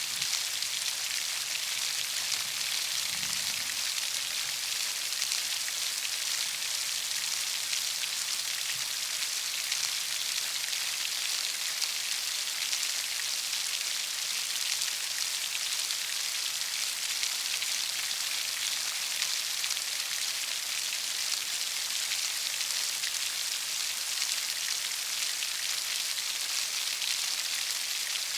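Heavy rain falling steadily: an even, unbroken hiss of dense drops.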